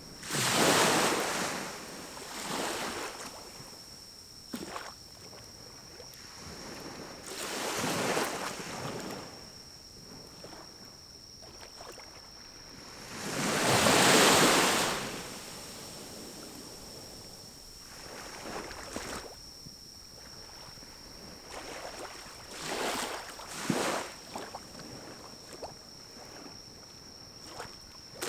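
Pine cones burning in a small wood-burning stove, with a few sharp crackles, under repeated rushing gusts of wind that swell and fade every few seconds, the loudest about midway.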